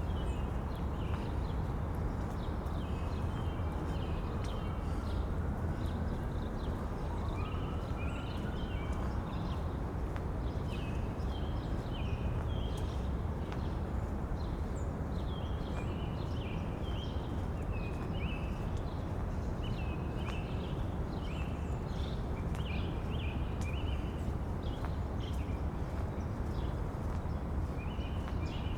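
Steady wind rumbling over the microphones, with a walker's footsteps ticking in a regular stride on the waterfront path.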